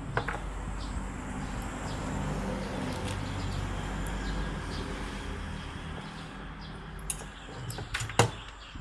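A steady low hum runs under a few sharp clicks and knocks, typical of small parts being handled. The loudest click comes near the end.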